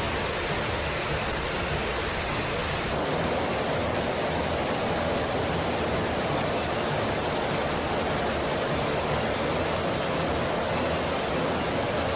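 Steady, loud rushing noise, even across the range, growing a little stronger in the middle register about three seconds in.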